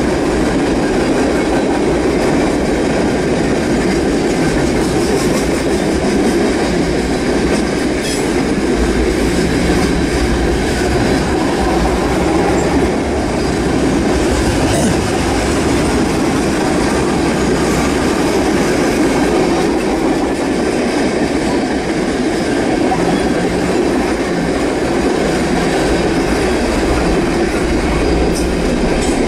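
Norfolk Southern freight cars rolling past close by: a steady, loud rumble of steel wheels on the rails, with occasional faint clacks.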